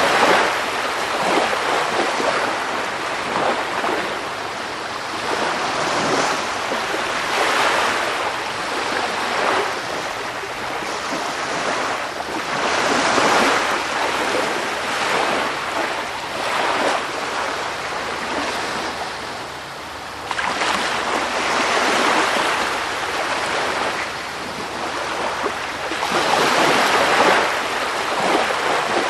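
Sea surf: waves washing in, a steady hiss that swells and fades every several seconds as each wave breaks and draws back.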